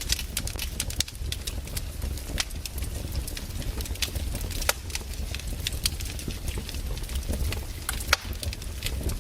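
Wood fire burning, its logs crackling with irregular sharp pops over a low steady rumble, a few pops louder than the rest.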